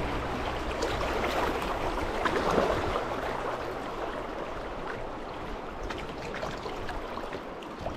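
River water rippling and splashing around a moving kayak, with small irregular splashes.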